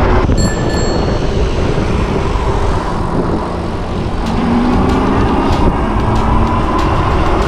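Steady traffic and road noise while riding a Super73 electric bike along a street, with a short high electronic beep about half a second in and a few faint clicks in the second half.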